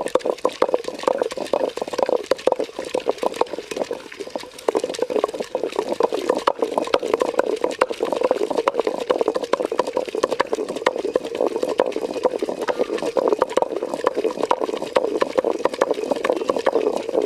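Country chicken curry bubbling in a pot at a rapid boil, a dense, steady stream of small pops.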